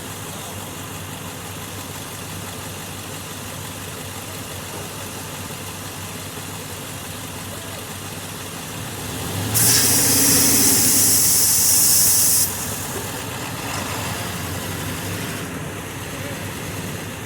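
Truck engine idling steadily. About halfway through, a loud hiss cuts in for about three seconds and stops abruptly.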